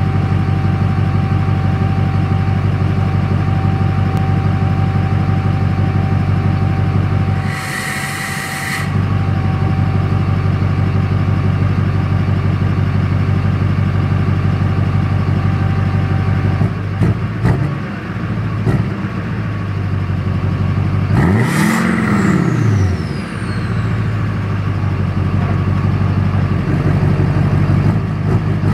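LMM Duramax 6.6-litre V8 turbo-diesel idling through a 4-inch aFe turbo-back exhaust with muffler, with a brief hiss about a third of the way in. Past halfway it is blipped a few times, then revved once higher and let fall back to idle, with the turbo's whistle falling away after the rev.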